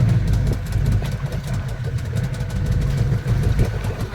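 Glass-bottom boat's engine running steadily with a low hum.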